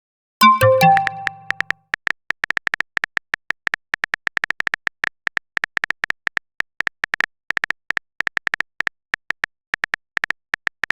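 Messenger app sound effects: a short notification chime about half a second in, followed by a long run of phone-keyboard typing clicks, several a second, with short pauses between runs.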